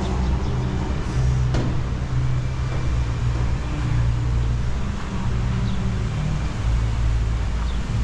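Road-vehicle engine running in city traffic: a low, uneven rumble, with a sharp click about a second and a half in.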